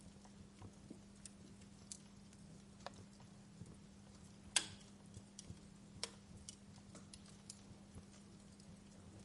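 Wood fire crackling in a fireplace: scattered sharp pops and snaps at an uneven pace, the loudest about halfway through, over a soft hiss and a faint steady hum.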